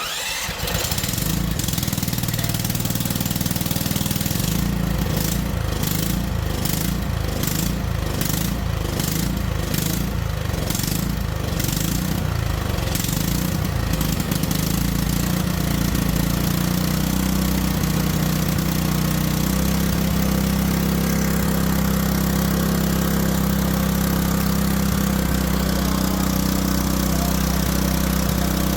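Small petrol engine running under the load of an electric fan heater. It comes in suddenly, pulses unevenly about once a second for several seconds, then settles into a steady run.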